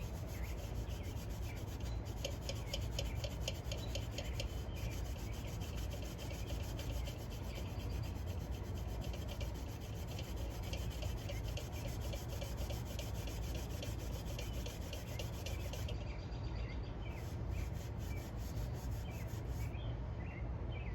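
Cloth rag rubbing polish over a cheap copper-plated metal casting (a coin bank) in quick repeated strokes. The strokes thin out in the last few seconds.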